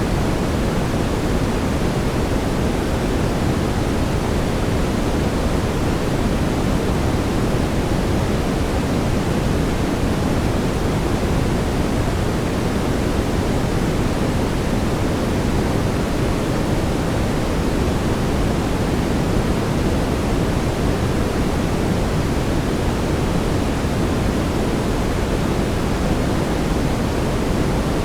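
Steady brown noise: an even rushing hiss weighted toward the low end, with no changes.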